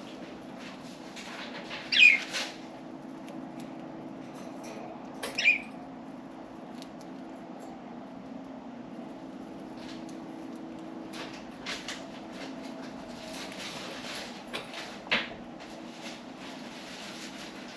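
Pet budgerigars: two short, sharp chirps about two and five seconds in, then scattered small clicks and rustles, over a steady low hum.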